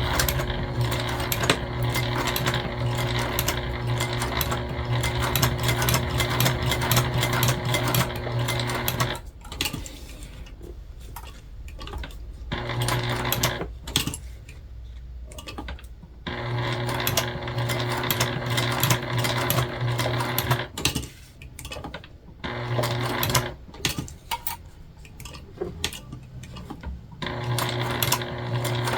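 Sewing machine topstitching through jelly vinyl. It runs steadily for about nine seconds, then stops and starts in several shorter runs with pauses between them, and runs again near the end.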